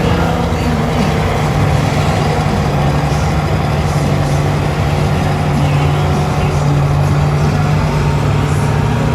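Diesel truck engines held at high, steady revs under heavy load, as two trucks pull against each other in a truck tug.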